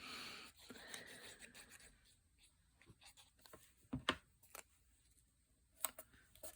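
Paper being rubbed and handled on a work surface: a soft rubbing for the first second or so, then a few light taps and knocks.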